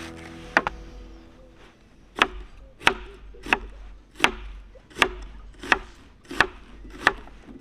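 Rhythmic chopping on wood: about nine sharp, evenly spaced strikes, a little under one and a half a second.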